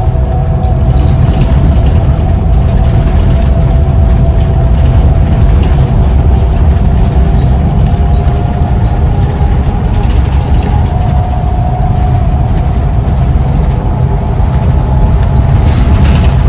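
Scania CN94UB single-decker bus under way: the engine runs steadily with a deep rumble and a whine that drifts a little in pitch, with a few light clicks or rattles near the end.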